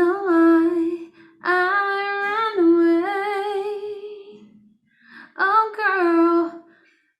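A woman humming a wordless melody without accompaniment, in three held phrases separated by short pauses.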